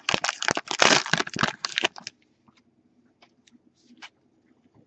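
Trading-card packaging being torn open by hand: a dense run of ripping and crinkling for about two seconds, then a few faint ticks of handling.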